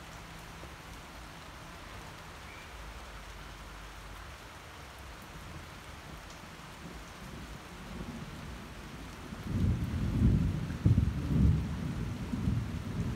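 Steady rain falling on a paved street. About eight seconds in, a loud, irregular low rumbling rises over it and stays to the end.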